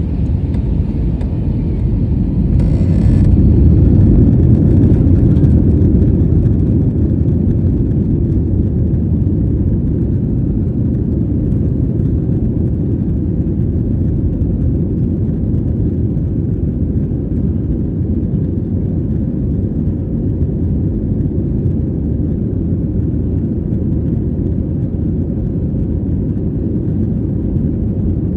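Jet airliner's engines running with a steady low rumble, swelling briefly a few seconds in, with a short hiss near the start.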